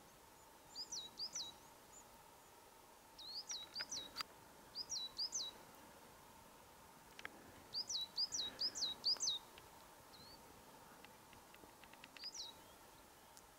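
Small songbird calling in short bursts of two to five quick high chirps, a few seconds apart, with the longest burst about two thirds of the way through.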